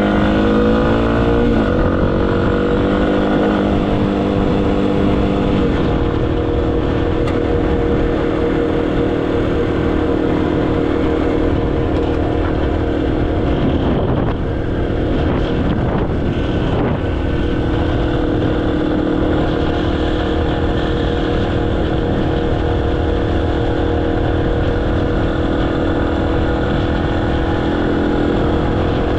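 Motorcycle engine under way, rising in pitch and stepping down twice early on as it is shifted up, then holding a steady pitch. Its pitch wavers briefly about halfway through, and a steady low rushing noise lies underneath.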